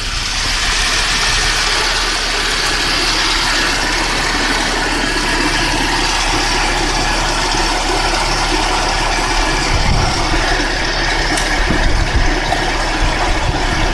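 Toyota Kijang LGX's engine idling steadily with the air conditioning on. The idle is now stable rather than hunting.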